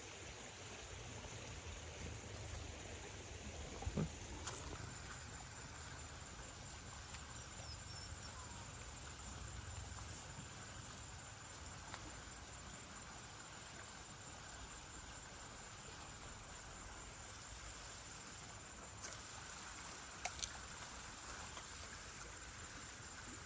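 Insects keeping up a faint, steady high trill, over a low rumble. A couple of sharp clicks stand out, about four seconds in and again near twenty seconds.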